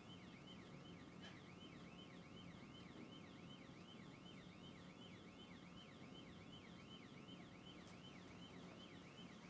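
Faint police siren in yelp mode, rising and falling quickly about three times a second.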